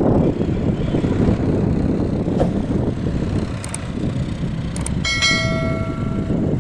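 Diesel tractor engines running hard at road speed in a steady rumble. A vehicle horn sounds once near the end, for about a second and a half.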